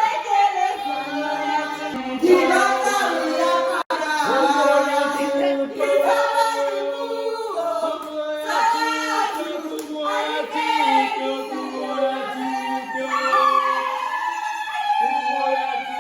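A group of voices singing together, with long held notes that slide between pitches. The sound breaks off for an instant about four seconds in.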